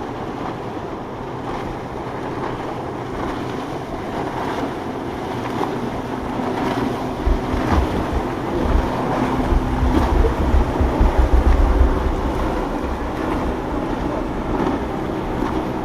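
Motorboat engines running past over the wash of surf, the engine note building to its loudest in the middle and easing off. Gusts of wind buffet the microphone around the middle.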